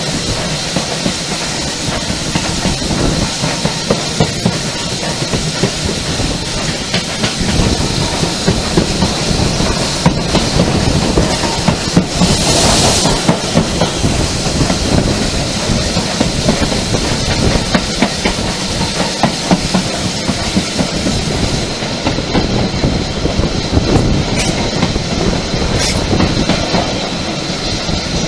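Steam-hauled train coaches running along the line: a steady rumble of wheels on rail with rapid clicking over the joints. A brief burst of hiss comes about halfway through.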